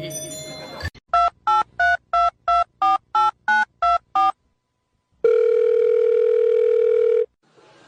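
A touch-tone telephone number being dialed: about ten short two-note keypad beeps in quick succession, followed by one steady two-second burst of ringing tone as the call goes through.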